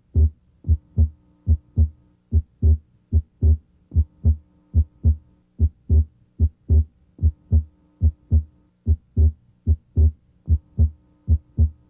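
Heart sounds heard through a stethoscope's diaphragm at the left second interspace: a regular lub-dub in paired beats. The second heart sound (S2) is split abnormally wide, and the split comes and goes with breathing. A faint steady hum runs underneath.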